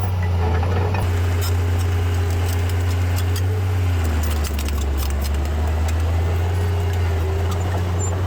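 Diesel engine of heavy earthmoving machinery running steadily, with a low hum whose pitch shifts about four seconds in. Light metallic rattles and clicks come through in the first half.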